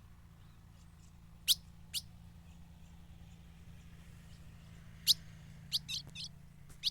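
Ultramarine grosbeak (azulão) giving short, sharp call notes: single notes about a second and a half and two seconds in, another around five seconds, then a quick run of three or four warbled notes near the end. A faint steady low hum lies underneath.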